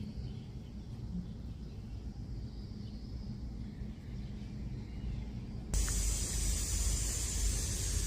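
Sony CFS-1065S radio cassette player giving a low hum, then a click about two-thirds of the way in and a sudden steady hiss, much brighter and louder than the hum.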